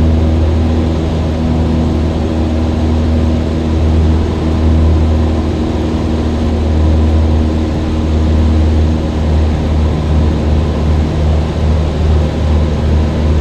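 Cessna 172's piston engine and propeller droning steadily in flight, heard from inside the cabin as a strong low hum. In the last few seconds the hum begins to pulse unevenly.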